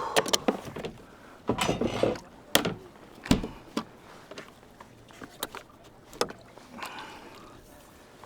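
Irregular knocks and thuds against a kayak as a freshly caught king salmon is dispatched and handled, the strongest in the first four seconds and fewer and fainter after.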